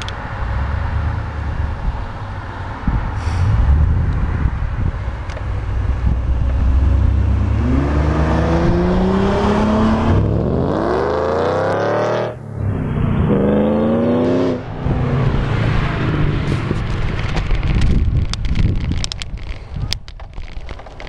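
Two Ford Mustangs driving past with a low engine rumble, then one accelerating hard away: the engine note climbs, drops sharply at a gear change, climbs again and cuts off as the driver lifts. Wind buffets the microphone throughout.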